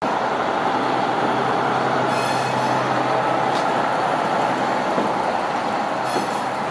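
Redhen diesel railcars running past close by: steady engine and wheel noise on the rails, with short high-pitched wheel squeals about two seconds in and again near the end.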